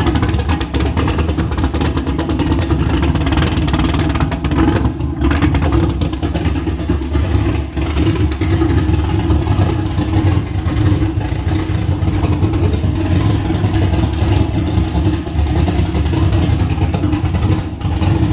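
A car being driven, with steady engine and road noise.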